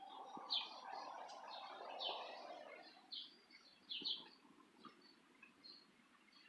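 Small birds chirping: a string of short, high chirps a second or so apart, with a soft rushing noise over the first three seconds.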